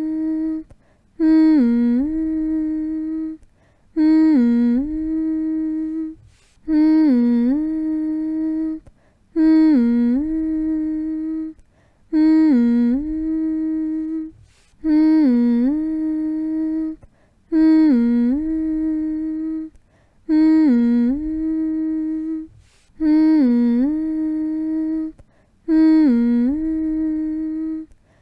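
A person's voice humming a soothing lullaby-style hum to calm a baby toward sleep. Each hum dips in pitch at the start, then holds one steady note for about two seconds, and the same hum repeats after a short pause roughly every two and a half seconds.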